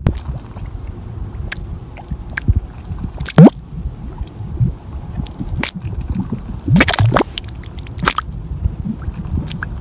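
Thick mud in a mud volcano bubbling, with wet plops and gloops as bubbles burst at irregular intervals over a low churning sound; the loudest plop comes about three and a half seconds in, and another cluster near seven seconds.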